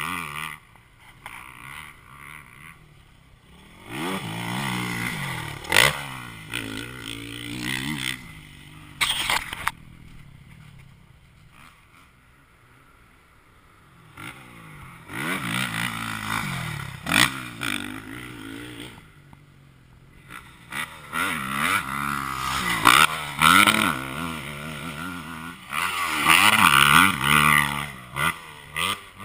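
Motocross bike engines revving hard, their pitch rising and falling in several waves as the bikes ride the track. The engines drop away to a quieter stretch about a third of the way through. A few short, loud spikes stand out.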